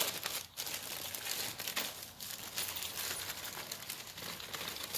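Crinkling of the gasket kit's packaging as it is handled: a steady run of small crackles with a brief pause about half a second in.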